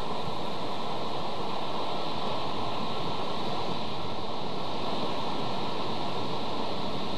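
Strong wind blowing across an outdoor nest-camera microphone: a constant, even rushing noise with no gaps.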